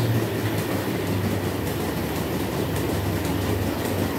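Dairy milking plant machinery running: a steady low hum with a noisy mechanical clatter and faint irregular clicks.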